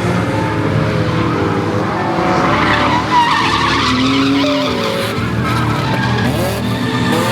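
A drift car's engine revving up and down while its tyres skid and hiss across a wet track in a slide.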